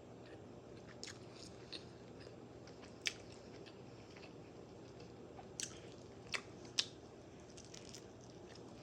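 Close-miked chewing of a bite of Italian sausage and bell peppers on a bun, with several sharp wet mouth clicks and smacks, the loudest about three seconds in and twice between six and seven seconds.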